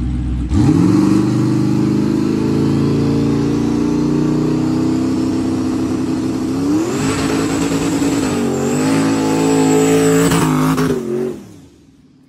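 Performance car engine under hard acceleration, loud, its pitch jumping up about half a second in and climbing, then rising again and wavering about seven seconds in with a high thin whine over it. It fades out quickly near the end.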